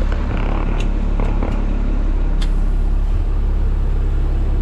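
A vehicle engine running with a steady low rumble, with a few light clicks or knocks in the first two and a half seconds.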